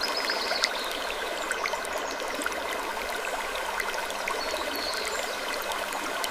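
Steady rushing noise of flowing water, like a stream, with a sprinkling of small ticks and a couple of brief high chirps.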